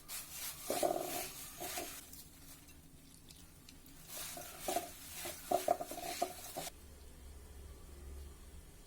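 Spoon stirring and scraping in a cooking pan, in two bursts, one about two seconds long and a later one a little longer, with a ringing note from the pan.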